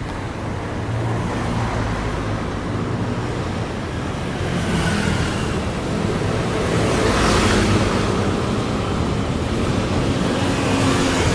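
Electric commuter train (local EMU) departing, its running rumble and rushing noise growing steadily louder, with a brief swell of hiss about seven seconds in.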